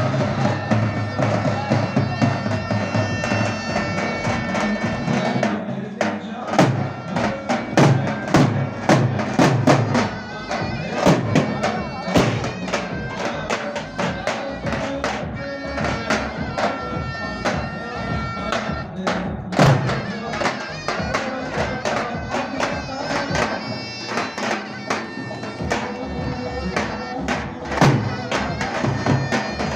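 Davul and zurna playing a Turkish folk dance tune: the shrill, reedy zurna melody over steady davul drum beats.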